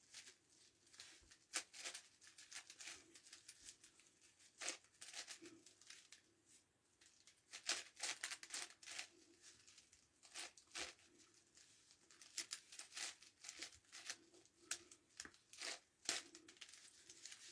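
Faint, irregular clicks and scrapes of the plastic layers of a 9x9x9 Rubik's Cube being turned by hand while pairing the last edges.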